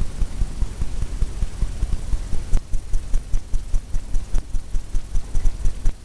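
Paint brush tapped repeatedly against a stretched canvas, making dull, even thumps about three or four a second.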